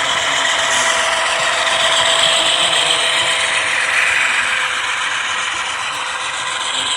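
Model train running along the track: a steady mechanical whirring and rattling from the locomotive's motor, gears and wheels, loudest a couple of seconds in as it passes close.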